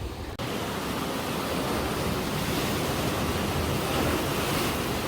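Sea surf on the shore: a steady rushing wash of waves that begins with a sudden cut about half a second in and swells slightly near the end.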